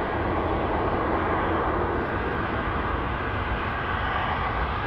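Jet airliner engine noise, steady in level, with no sudden events.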